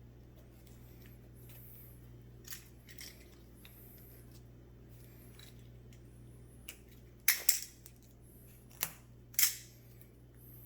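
Electrical tape being pulled and ripped off the roll: a handful of short, sharp crackling rips, the loudest ones in the second half, as it is wrapped round a loose vacuum hose joint to seal it.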